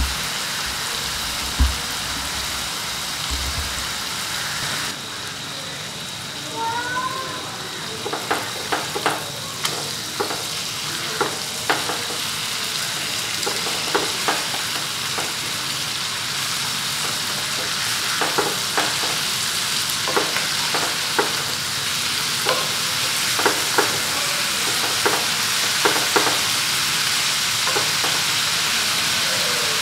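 Chicken breasts frying in oil in a pan, a steady sizzle. From several seconds in until near the end, a wooden spatula scrapes and knocks against the pan as the pieces are turned, in a run of short sharp taps.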